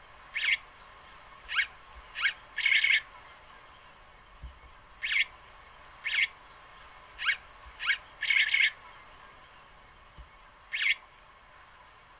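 Short, harsh, high bird calls, each opening with a quick upward sweep. They come in groups of four quick notes and a longer buzzy note, and the group comes round about every five and a half seconds.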